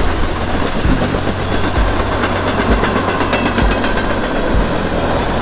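Freight train of tank cars rolling past: a steady, loud low rumble of wheels on rail, with a low thump about once a second.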